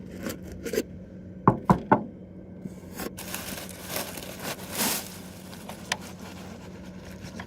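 Knocks and scraping from work on a rain gutter: three sharp knocks close together about a second and a half in, then a couple of seconds of scraping and rustling.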